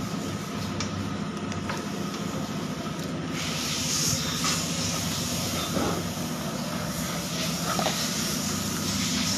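Motorcycle engine idling steadily, with a hiss that grows louder about three seconds in.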